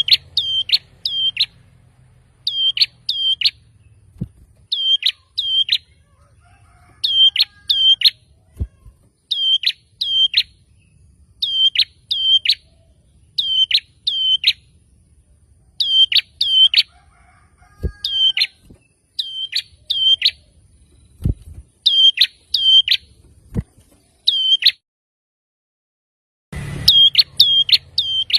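Prenjak (prinia) calling over and over in quick clusters of two to four sharp, hooked chirps, about one cluster every second and a half. A faint low hum runs underneath, with a few soft thumps; the calls stop for about two seconds near the end, then start again.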